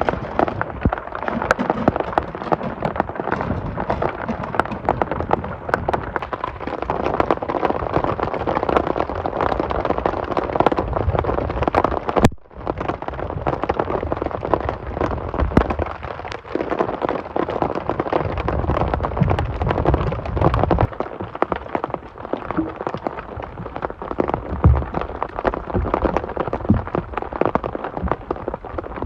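Heavy rain pattering hard on a surface close by, a dense, steady crackle of drops. It breaks off for an instant about twelve seconds in.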